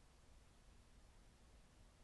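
Near silence with a faint steady hiss.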